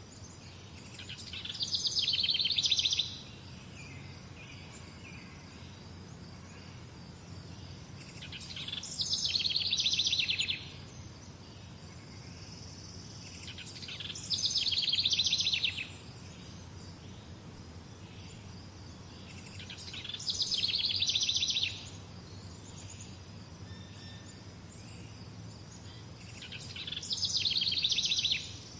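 A songbird repeating the same song phrase five times, about every six seconds. Each phrase is about two seconds of rapid trilled notes that build in loudness and then stop abruptly, over steady low background noise.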